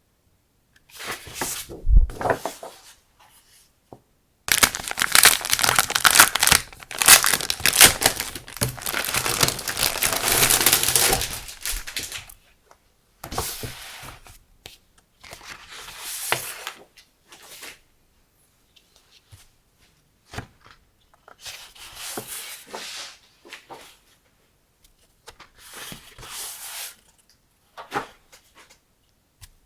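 Decorative paper and its packaging being handled: rustling and crinkling in bursts, with one long dense stretch of crinkling from about four to eleven seconds in. A low thump about two seconds in.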